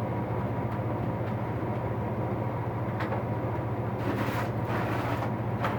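A steady low background hum, with a few faint clicks and clinks of metal hand tools being handled in a toolbox.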